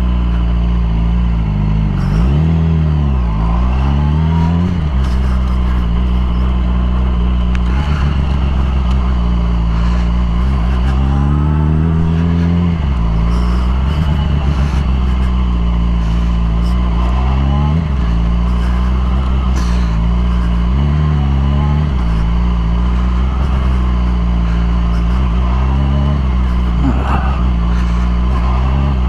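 Yamaha R6 sport bike's inline-four engine, fitted with a Graves exhaust, running under way. The engine note holds mostly steady, and several times the revs drop and climb again as the throttle is rolled off and back on.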